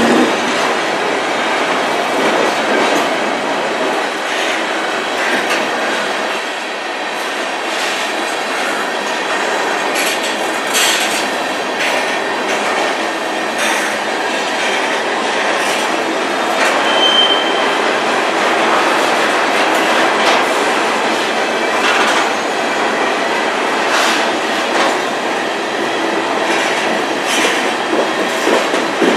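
Canpotex covered hopper cars of a CN potash freight train rolling past close by: steady wheel rumble and clatter with clicks of wheels over rail joints, and one brief high squeal a little past halfway.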